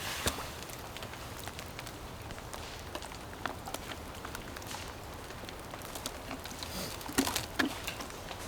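Steady rain patter with scattered small ticks, and two louder knocks a little after seven seconds in.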